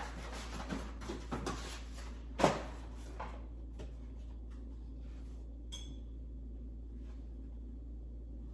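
Kitchen items being handled and put away: light knocks and clatter, the loudest knock about two and a half seconds in, then fainter ticks and a short ringing clink near six seconds, over a low steady hum.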